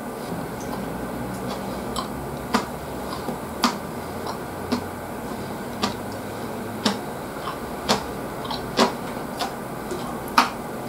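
A person chewing food with the mouth open: short, sharp wet mouth smacks at an uneven pace, about one a second, over a low steady room hum.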